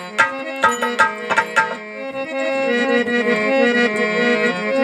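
Dholak played in a quick pattern of strokes over a sustained reed-instrument melody during an instrumental interlude of a bhajan. The drum strokes stop about two seconds in and the held melody carries on alone.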